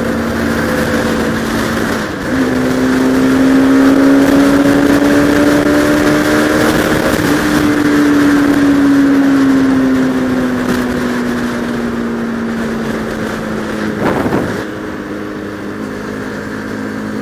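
Bajaj Pulsar RS200 single-cylinder motorcycle engine under hard riding at speed, heard through a helmet camera with wind noise. The engine pulls harder about two seconds in, its pitch climbing for several seconds, then eases back and drops off after a short burst near the end as the bike slows.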